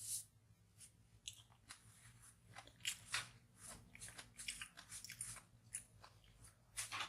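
A person chewing and biting food, an irregular series of small clicks and smacks from the mouth.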